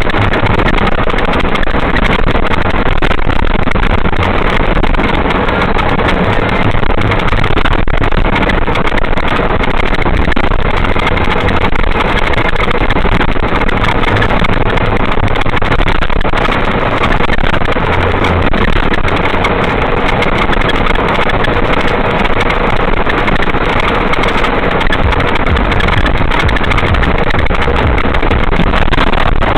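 Steady road and engine noise of a car driving on a highway, an even rumbling hiss.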